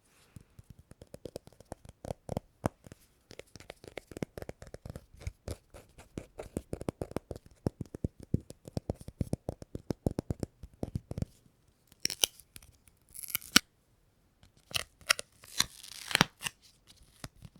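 Sticky, tacky material being pressed and pulled apart. It makes a dense run of rapid crackling clicks for about eleven seconds, then, after a brief pause, several louder and sharper peeling rips.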